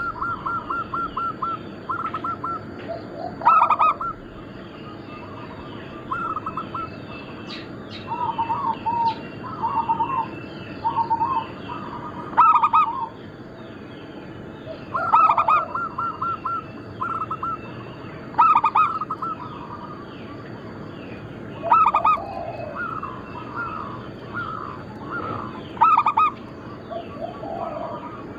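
Zebra doves (perkutut) cooing: phrases of rapid staccato coos repeated every few seconds, several birds calling in turn at slightly different pitches. Faint small chirps and a thin steady high tone run underneath.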